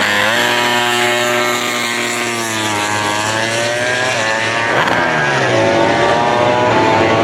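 Racing motorcycle engines at high revs passing at a circuit: one engine's note jumps up just after the start, sags, then climbs. About five seconds in, a second bike's note falls in pitch as it goes by while another climbs.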